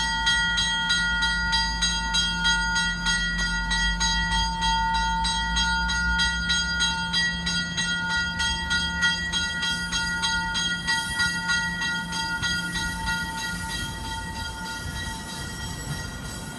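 MBTA commuter rail train pulling out, its F40PH-2C diesel locomotive pushing: the engine rumble fades away over the first half, under a steady high whine and fast, regular clicking. The whole sound grows slowly quieter as the train leaves.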